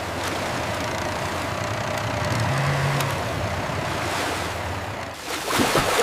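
Rushing, churning water with a low engine hum underneath that rises briefly in pitch about halfway through, and a few splashes near the end.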